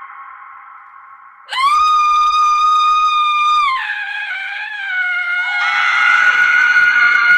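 A woman's screams: a fading scream, then about a second and a half in a loud, high, steady scream held for about two seconds. It then drops lower and wavers, and another scream joins near the end.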